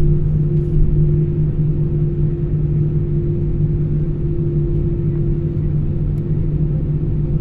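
Airbus A320 airliner cabin noise from the jet engines and airflow: a steady low rumble with a constant two-tone hum that neither rises nor falls.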